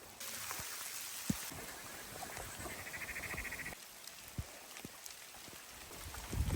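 Steady hiss of rain and dripping water with a few soft knocks, broken near the middle by an animal's rapid, buzzy pulsed call lasting about a second.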